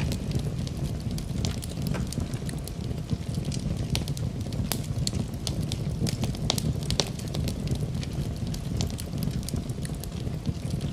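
Wood campfire crackling: many sharp, irregular pops and snaps over a steady low rush of the burning fire.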